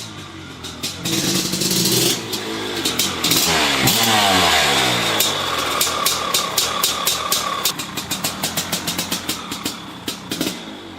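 1997 Maico 500 two-stroke single-cylinder dirt bike engine revving up and falling back, then running at low revs with a ragged, popping beat of about four to five pops a second. The rider says it is still cold and seemed to run a little rich at first.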